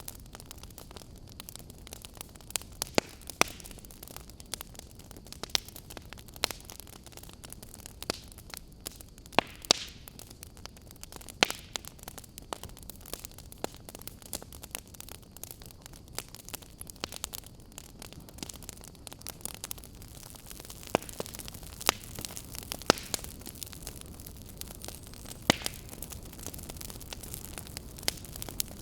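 Wood fire burning in a fireplace: a steady low rush of flames, with irregular sharp crackles and pops from the burning logs.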